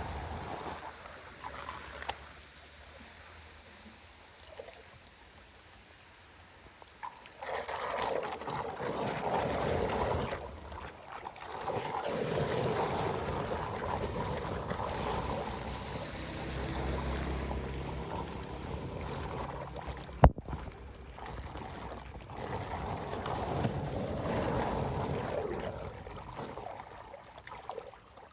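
Water flowing and splashing in uneven surges that swell and fade, quieter for a few seconds near the start. One sharp knock about two-thirds of the way through.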